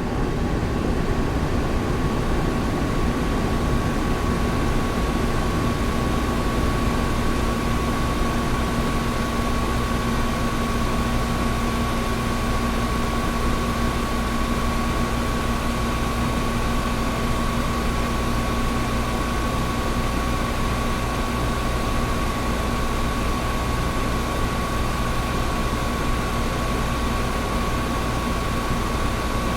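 Air conditioner running steadily: an even rushing of air with a constant low hum and a faint, steady higher whine.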